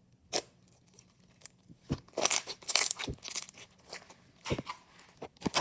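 Water jelly slime being squished and pulled by hand, giving short sticky crackles and pops. They come in clusters, densest between about two and three and a half seconds in.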